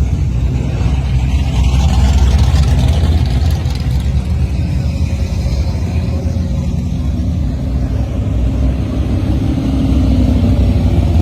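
Loud, steady low engine rumble of a classic muscle car or gasser running at low revs.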